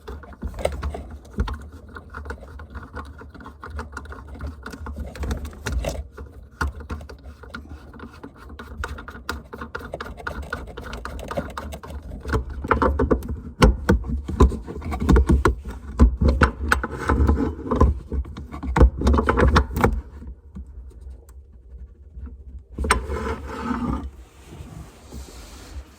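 Clicks, knocks and scraping from hand tools and metal fittings being worked during a washbasin faucet replacement, coming in irregular clusters and busiest in the middle, with a short lull near the end.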